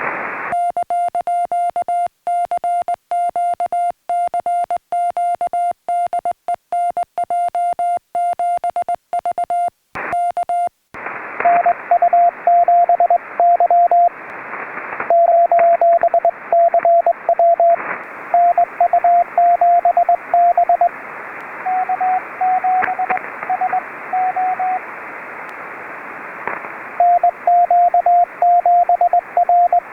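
Morse code from a portable HF radio, sounding as a keyed beep near 700 Hz. For about the first ten seconds the tone is clean, with silence between the dots and dashes. After that, Morse tones sound through the receiver's band hiss.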